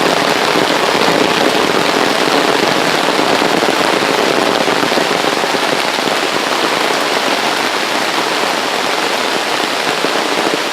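Rain falling straight down onto an umbrella overhead: a loud, steady patter of drops on the fabric.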